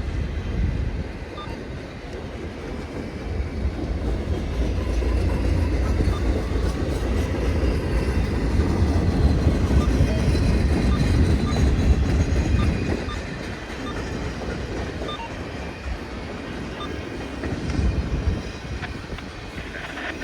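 A train rolling past with a steady low rumble. It builds to its loudest about halfway through, drops off fairly sharply about two-thirds in, and carries on quieter.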